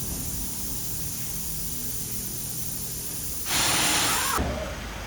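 A sudden hiss, just under a second long, about three and a half seconds in, ending abruptly, over steady background noise with a faint high whine.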